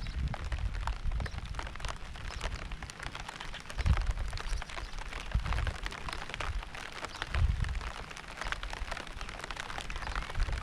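Steady rain: a dense patter of drops landing on a surface, with a few deep low rumbles swelling up and fading, the strongest about four seconds in.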